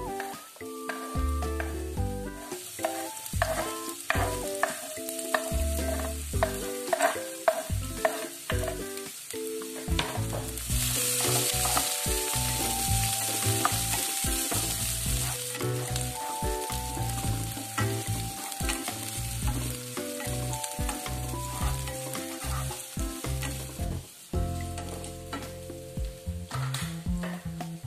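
Sliced shallots and garlic sizzling in hot oil in a non-stick wok, stirred with a wooden spatula, with taps and scrapes of the spatula on the wooden cutting board and the pan. The sizzle grows louder about ten seconds in and eases off a few seconds before the end. Background music plays underneath.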